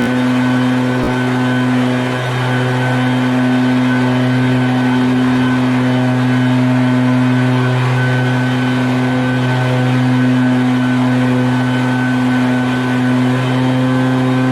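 Vehicle engine running at a steady speed, a constant low drone that does not rise or fall, with a single brief click about a second in.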